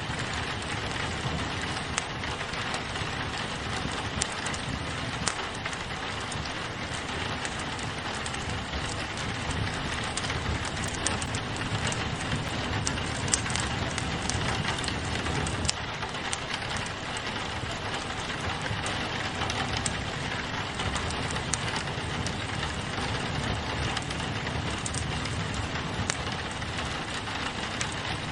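Steady rain on a window mixed with a wood fire crackling in a fireplace, with many small pops and ticks scattered through an even hiss.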